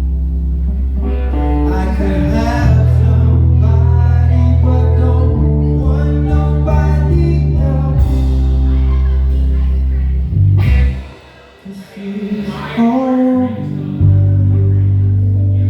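Live soul band playing, with electric bass, drums and keys under a bending melodic lead line. A little over ten seconds in, the bass and low end drop out for about three seconds, then the full band comes back in.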